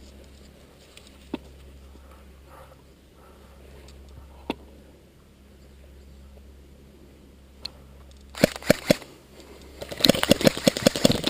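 Airsoft electric gun (AEG) firing: a few sharp single shots about eight and a half seconds in, then a rapid full-auto burst of clicks near the end.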